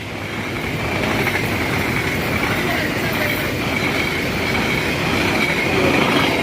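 Train running past on the rails, steady rumbling noise with a thin, high wheel squeal held above it.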